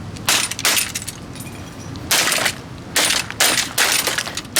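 Plastic Lasko box fan being crushed: a series of about half a dozen sharp cracks and crunches as its housing and grille break apart, over a low rumble.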